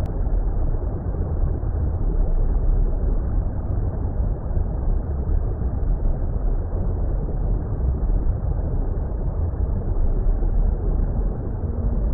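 Steady, deep, muffled water rumble, even and unchanging, with no separate splashes or other events.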